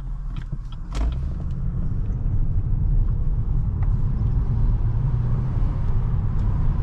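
Car being driven: a steady low engine and road rumble that grows louder about a second in, with a short knock at that point.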